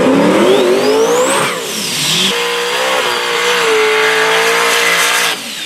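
Drag-race car engine revving, its pitch climbing for about a second and a half with a high whine that rises and falls, then holding a steady note at full throttle before it cuts off near the end.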